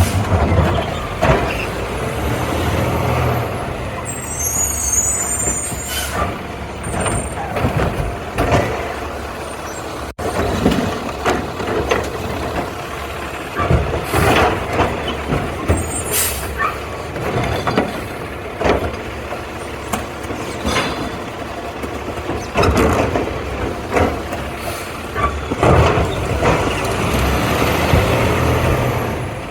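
Garbage truck running, with several sharp air-brake hisses and many clanks and knocks over the steady engine rumble.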